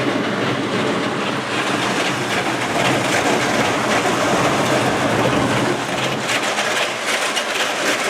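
Train running on rails: a loud, dense rumble with a steady hum, and rapid wheel clatter in the last couple of seconds.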